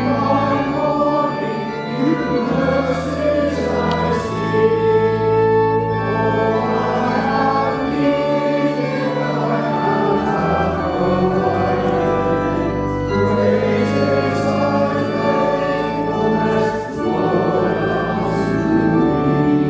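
Congregation singing a hymn to pipe organ accompaniment, with sustained bass notes under the voices.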